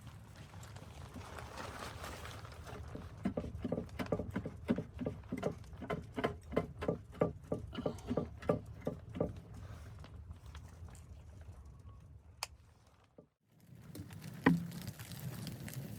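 Quick footsteps crunching in snow, about three a second for several seconds, over a steady low wind rumble. After a brief break, a single knock sounds near the end.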